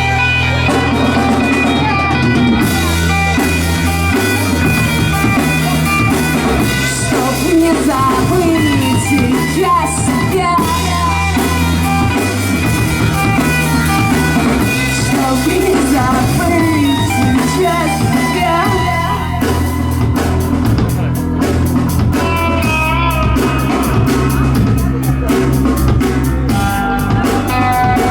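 Live rock band playing: drum kit, bass and electric guitars in a dense, loud mix. About two-thirds of the way through, the drums shift to a fast, even beat on the cymbals.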